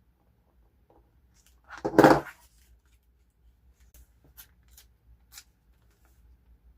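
Paper-craft materials being handled on a table: a short, loud rustle-clatter about two seconds in, then a few light ticks and taps.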